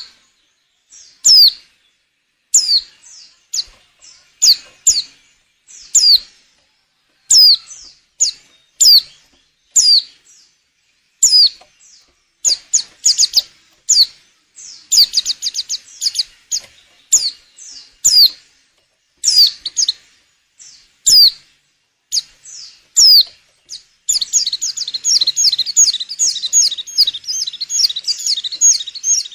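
Female white-eye (pleci) in breeding condition calling: single high chirps that fall in pitch, about one a second with a few quick runs, breaking into a fast continuous twitter near the end. This is the call bird keepers play to stir male white-eyes to sing or to lure them.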